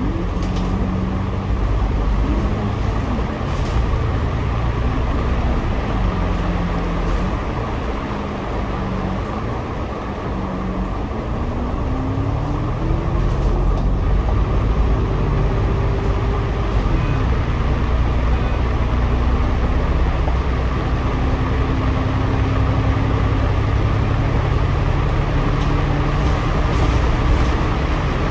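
Double-decker bus engine and drivetrain heard from inside on the upper deck, a steady low rumble under a whine that rises as the bus accelerates about halfway through, drops a few seconds later and then settles into a steady cruise.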